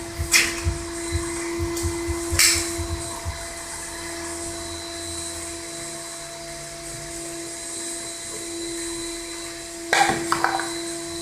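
A steady machine hum with a constant mid-pitched tone. There are sharp knocks near the start and about two seconds in, and a short burst of clatter about ten seconds in.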